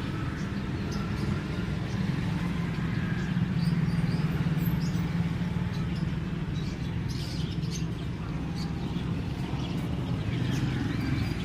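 A steady low rumble, with short faint chirps of caged birds scattered through it.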